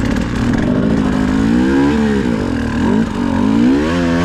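Dirt bike engine revving. It runs steadily at first, then the throttle is worked so that the pitch rises and falls several times.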